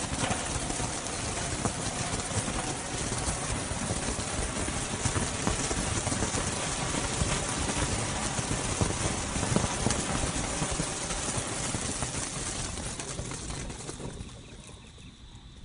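Firework fountain spraying sparks: a steady hiss full of fine crackling, dying away near the end.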